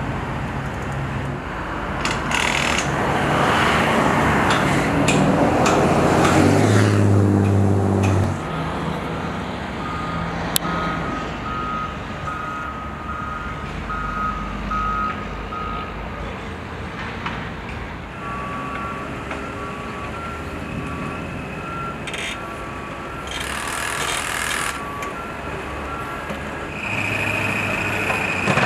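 A heavy vehicle's engine grows louder and falls in pitch as it passes. Then a vehicle's reversing alarm gives a long series of short, evenly spaced beeps, pausing once and starting again.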